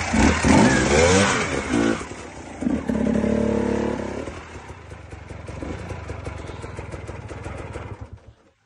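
KTM EXC enduro dirt bike engine revved twice, the pitch rising and falling, then idling steadily before cutting off near the end.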